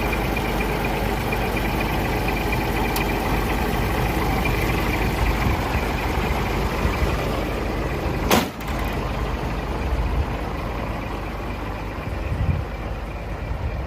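Scania R420 truck's DC12 diesel engine running steadily. A single sharp knock comes about eight seconds in, after which the sound is softer in the highs.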